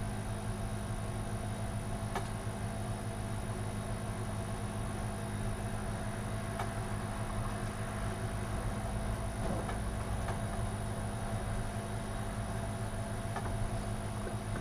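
Steady low electrical hum with a thin high whine, under a few faint clicks and taps of small connector plugs and wires being handled inside a computer case.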